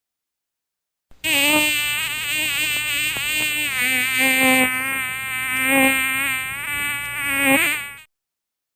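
Mosquito buzz sound effect: a steady insect whine whose pitch wavers up and down, as if flying around near the ear. It lasts about seven seconds, then cuts off.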